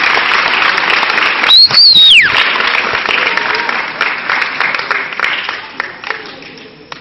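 Crowd applauding and cheering, with one loud, shrill whistle about two seconds in that rises, holds and falls. The applause thins out and dies down toward the end.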